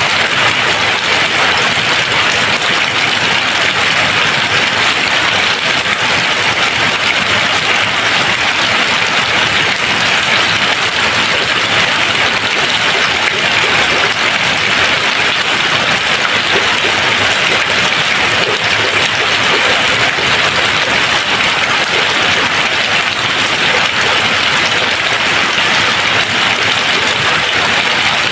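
Steady, unbroken rain with no thunder: a dense, even hiss of falling rain.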